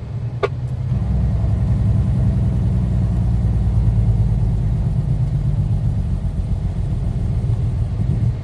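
Semi truck's diesel engine running steadily, a low drone heard from inside the cab. A single sharp click sounds about half a second in.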